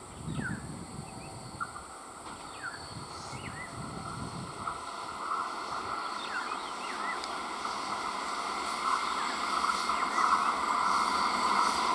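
BEML-built electric train approaching, its running sound growing steadily louder, while birds chirp repeatedly over it.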